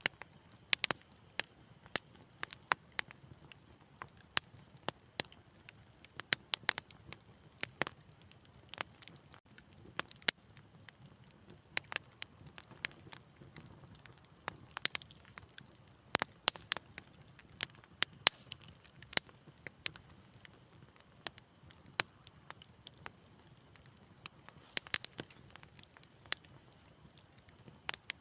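Wood fire crackling, with frequent sharp irregular pops and snaps over a faint low hiss.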